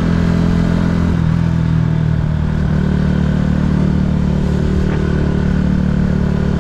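Motorcycle engine running steadily, its note shifting slightly about a second in and again near three seconds in.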